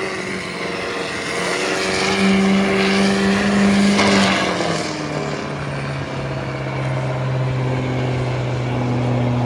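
Stock diesel pickup truck engine under full load pulling a weight sled. The revs climb for a couple of seconds, drop back about halfway through, then hold steady.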